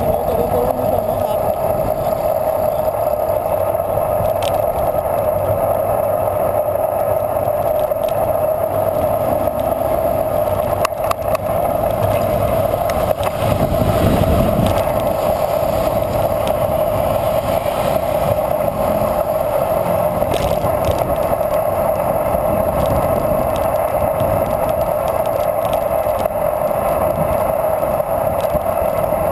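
Bicycle rolling steadily along, a constant tyre and road noise with a few sharp clicks and rattles.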